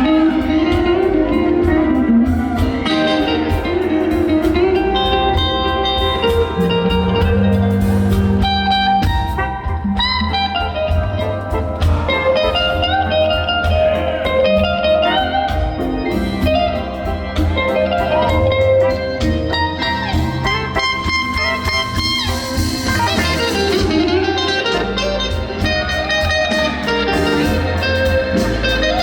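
Live blues band playing a slow instrumental passage: an electric guitar plays a lead with bending, gliding notes over bass and drums.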